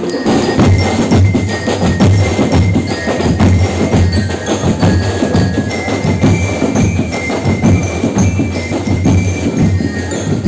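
Ati-Atihan tribal percussion band playing loud, dense drumming with clanking metal and wood percussion, a few thin high tones above it.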